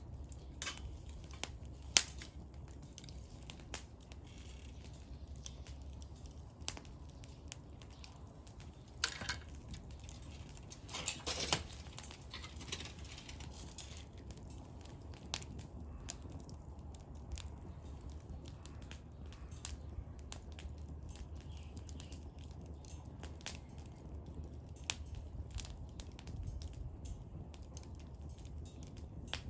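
Firewood burning in a small fire pit, crackling with scattered pops and snaps over a low steady rumble. There is one sharp pop about two seconds in and a dense run of crackling around eleven to twelve seconds in.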